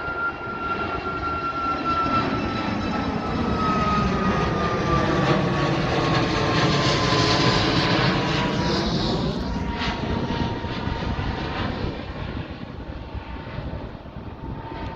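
Ryanair jet airliner passing by, its engines running with a steady rush and a high whine that slides slowly down in pitch as it goes past. It is loudest a little past the middle, then fades.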